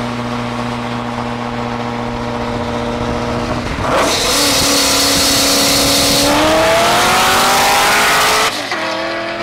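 Car engines at a steady highway cruise, then about four seconds in a full-throttle pull from rolling speed: a loud rush of engine and wind noise as the engine note climbs steadily, until the throttle lifts and the sound drops off suddenly near the end. A C6 Corvette V8 is racing the filming car side by side.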